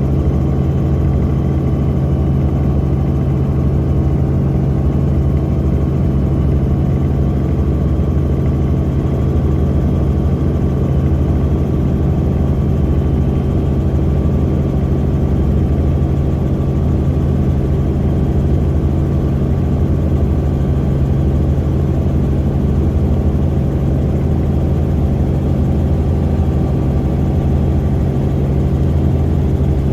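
Helicopter in steady flight, heard on board: a loud, even drone of turbine engine and rotor with a deep steady hum and a faint high whine above it.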